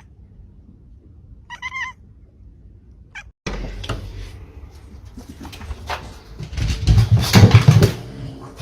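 A cat meows: a short call about a second and a half in and a briefer one just after three seconds. Then, after a sudden cut, a noisy stretch of rustling and knocks that is loudest near the end.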